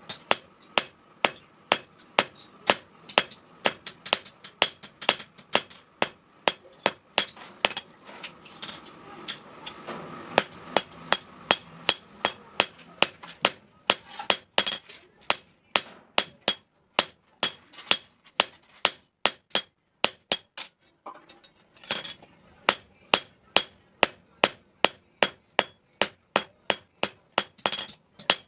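Blacksmith's hammer striking hot steel on an anvil in a steady run of ringing blows, about two to three a second, with a short pause a little after two-thirds through.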